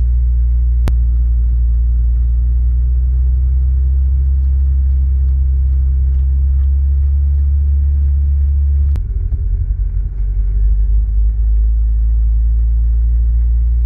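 Honda Civic Si's replacement K20Z3 four-cylinder engine and road noise heard from inside the cabin while driving slowly, a steady low drone. About nine seconds in the drone changes and wavers for a couple of seconds. There is a single sharp click near the start and another about nine seconds in.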